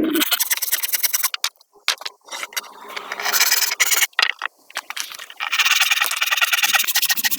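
Rasping, scraping strokes of a hand tool on wood, in three spells with short pauses between them.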